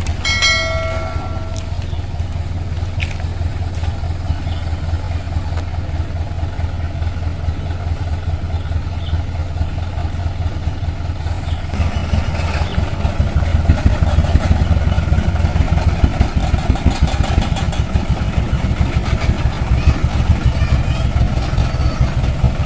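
Mitsubishi Fuso Canter dump truck's diesel engine running steadily, getting louder about halfway through. A brief pitched tone sounds just after the start.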